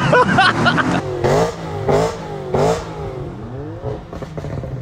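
Mercedes CL500's V8 running as the car is driven, with a repeated squeal that slides in pitch and a grinding scrape from a small stone caught between a brake pad and the disc. The noise comes in several bursts and dies down after about three seconds.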